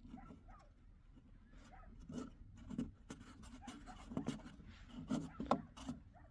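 Faint scratching and light irregular taps, with a few short high squeaks in between; the taps are loudest in the second half.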